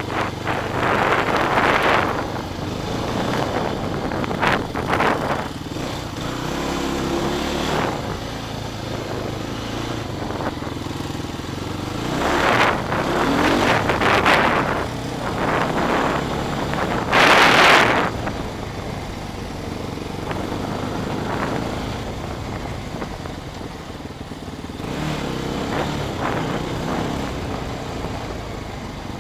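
Yamaha Raptor 125 ATV's single-cylinder four-stroke engine running as it is ridden, rising and falling with the throttle. There are several loud rushing surges, the biggest a little past halfway.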